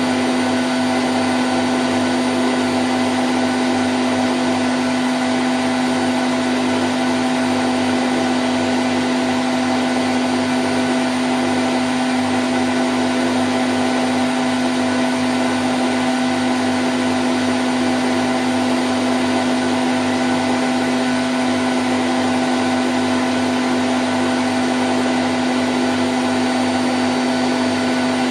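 Candy Grand O' F106 washing machine on its spin cycle at 1000 rpm: a steady motor whirr with one strong low hum.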